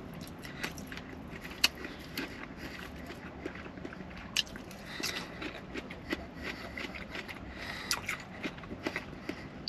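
Close-miked chewing of a poke bowl: many small, irregular wet mouth clicks, with a few sharper ones about 1.5 and 4.5 seconds in.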